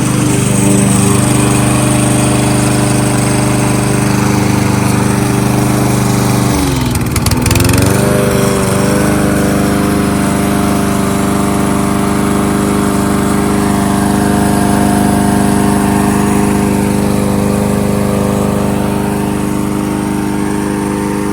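Kohler XT-675 single-cylinder engine on a Yardworks push lawnmower running steadily. About a third of the way in, the engine speed dips briefly and then picks back up.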